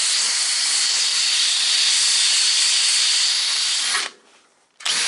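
Compressed-air blow gun blowing dust and rust debris out of the corners of a freshly wire-brushed panel, a steady loud hiss. The air cuts off sharply about four seconds in as the trigger is released, then comes back on.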